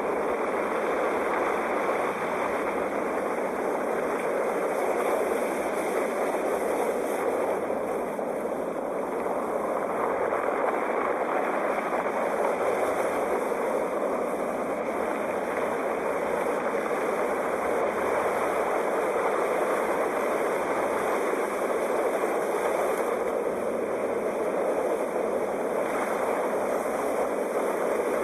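Steady rush of ocean surf, swelling and easing only slightly, with no separate wave crashes standing out.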